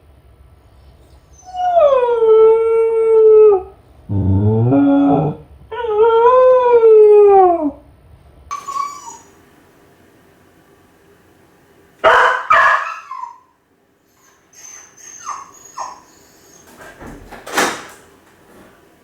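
A Kai Ken dog howling in separation distress while left alone: two long, drawn-out howls that hold their pitch and then fall away, with a lower whining cry between them. A few shorter, sharper noises follow in the second half.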